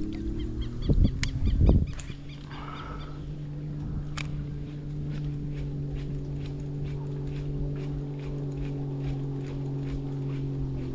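An engine runs steadily as a low, even hum with a slight drift in pitch. About a second in, wind gusts buffet the microphone.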